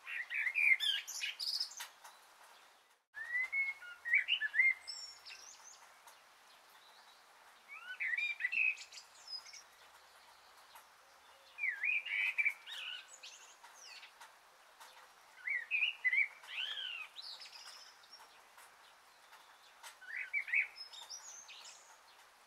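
Songbird singing a short phrase of quick, gliding chirps, repeated about every four seconds.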